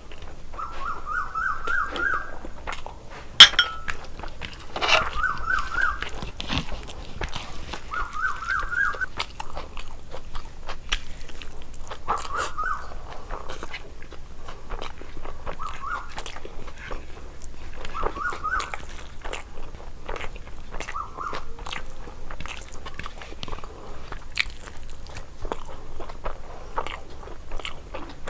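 Close-up mouth sounds of a person chewing biryani: wet smacking clicks and soft crunches throughout. There is one sharp click a few seconds in, and every few seconds a short series of quick, repeated high-pitched squeaks.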